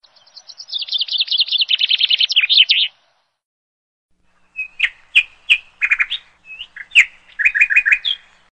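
Songbird singing: a fast trill of quick, falling high notes for about three seconds, then a pause, then a run of separate sharp chirps, some in quick groups of three or four.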